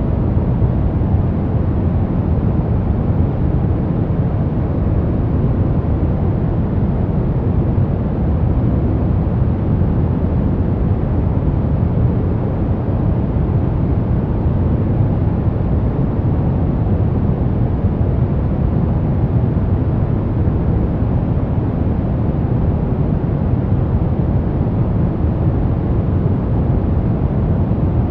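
Steady, unchanging sleep white noise, weighted heavily toward the low end so it comes across as a deep, even hiss with little treble.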